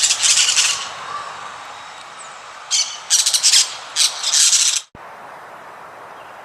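Harsh, raspy bird calls in three loud bursts, then a sudden cut to a steady, quieter background hiss.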